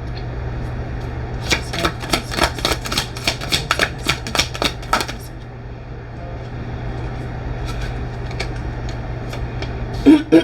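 Tarot cards being shuffled by hand: a quick run of card slaps, about four a second, lasting a few seconds, over a steady low hum.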